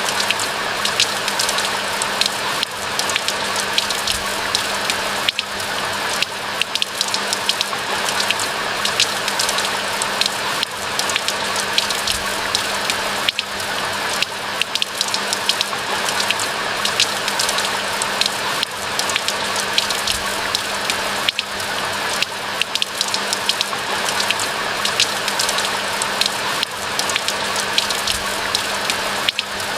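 Steady rain falling, a continuous hiss dotted with many sharp individual drop ticks, with a faint steady low hum underneath.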